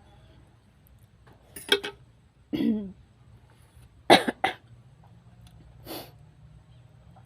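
A person coughing a few times, with a drawn-out throaty sound among the coughs; the loudest cough comes about four seconds in.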